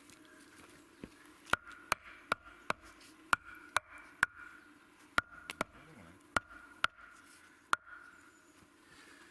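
A series of about a dozen sharp knocks, roughly two a second with a couple of short pauses, each leaving a brief ringing tone.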